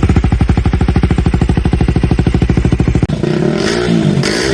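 KTM RC200's single-cylinder engine running through an aftermarket Akrapovic exhaust, with a rapid, even exhaust beat. About three seconds in the sound changes abruptly and the engine note dips and rises in pitch.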